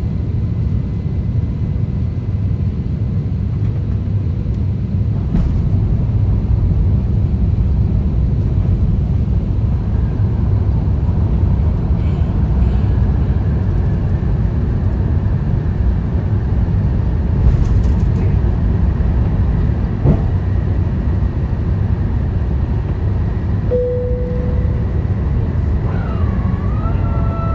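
Airbus A350-1000 airliner noise: a steady low rumble of engines and airflow. A brief steady tone sounds near the end, then several held tones begin just before it ends.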